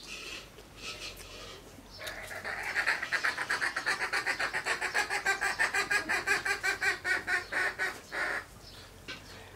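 A bird calling in a rapid, even run of short repeated notes. It starts about two seconds in and lasts some six seconds.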